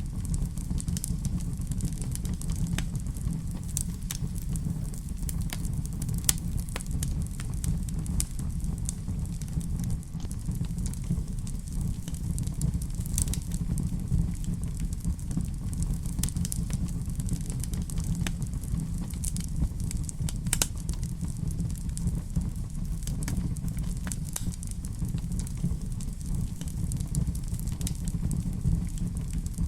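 Fire crackling in a fireplace: a steady low rumble with frequent, irregular sharp pops and snaps.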